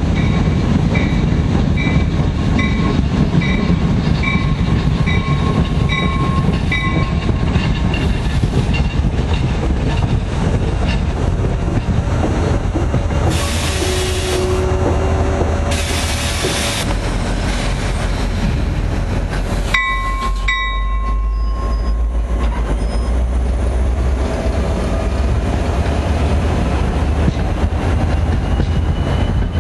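NJ Transit commuter train of Comet coaches rolling past with a steady low rumble and wheel clatter on the rails. A bell dings about one and a half times a second for the first seven seconds, and a short high tone sounds about twenty seconds in.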